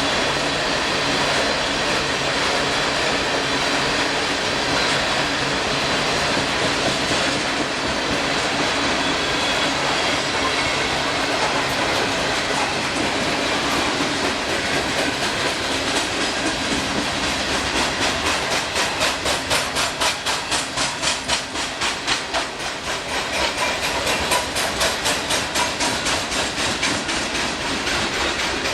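Cars of a GREX ballast dump train rolling past: a steady rumble and hiss of steel wheels on rail, which turns into a fast, even clickety-clack in the second half as the wheels cross the rail joints.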